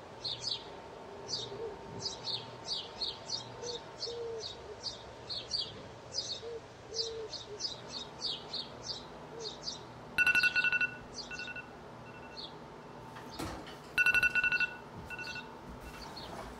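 Bird chirping, a quick run of short high chirps over the first ten seconds. About ten seconds in, and again about fourteen, a loud trilling electronic two-tone ring sounds, each burst under a second, followed by a few fainter short echoes.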